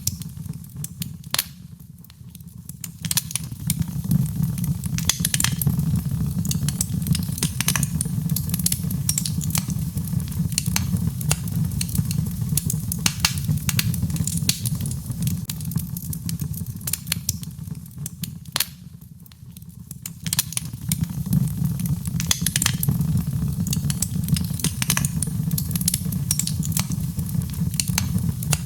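Birch logs burning in a fireplace: frequent sharp crackles and pops over a steady low rumble of the flames. The fire quietens briefly about two seconds in and again around nineteen seconds, then picks up.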